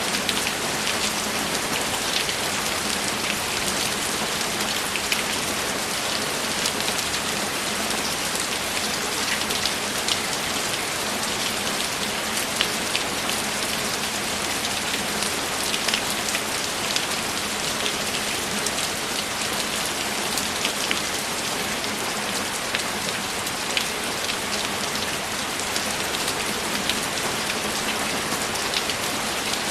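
Steady rainfall: a constant hiss of rain with many small, crisp drop ticks scattered through it.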